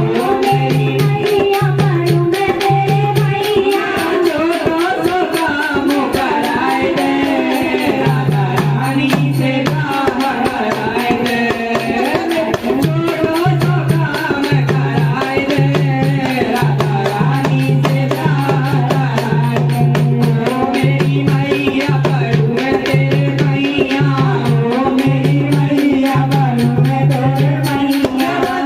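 Hindi devotional bhajan: a voice singing a wavering melody over a fast, steady percussion beat with a shaken rattle and a low pulsing drum tone.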